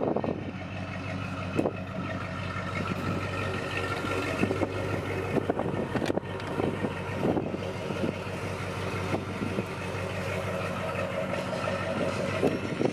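AMC 401 V8 in a Jeep Grand Wagoneer idling steadily. Footsteps and handling knocks sound over it, with a door latch clicking open about six seconds in.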